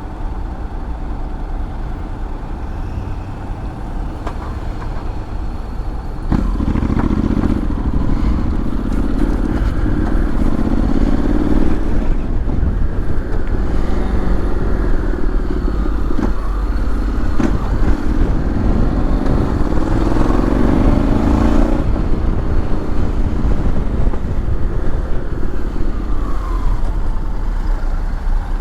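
Honda X-ADV 750 parallel-twin engine pulling the scooter along, its pitch climbing in repeated rising sweeps from about six seconds in until about 22 seconds in, then settling to a steadier cruise. Constant wind rumble on the microphone underneath.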